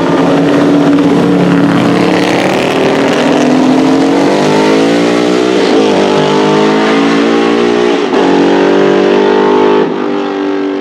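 Race car engine accelerating hard, its pitch climbing through the gears with two quick upshifts, about six and eight seconds in.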